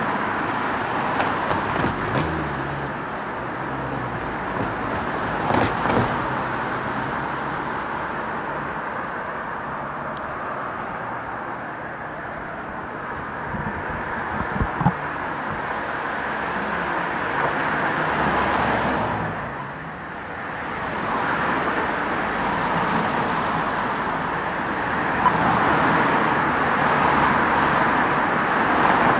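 Road traffic passing close by, a steady rush of car and tyre noise that swells and fades as vehicles go past, with a brief lull about two-thirds of the way through.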